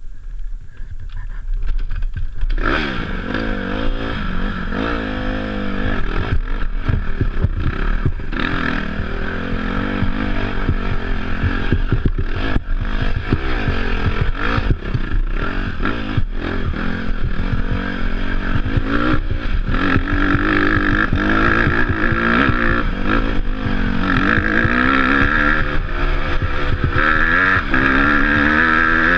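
Dirt bike engine running under riding, coming in about two and a half seconds in and then rising and falling in pitch over and over with the throttle, with frequent clattering knocks.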